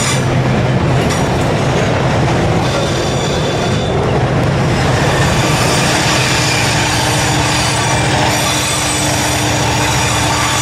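Freight train rolling through a rail yard, its steel wheels squealing against the rails over a steady rumble. The thin squeal tones grow clearer a few seconds in.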